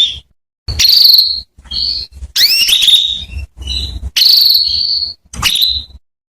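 Female canary calling: a run of rising chirps and short trills, several phrases with brief gaps between them. This is the call used to set male canaries singing.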